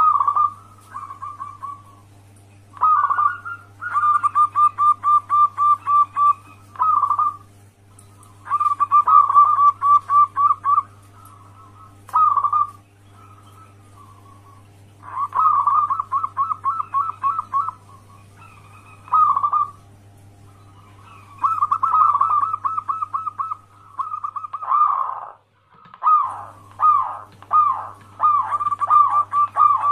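Zebra doves cooing in quick staccato trains of repeated notes, each run lasting a second or three, then pausing, over a steady low hum.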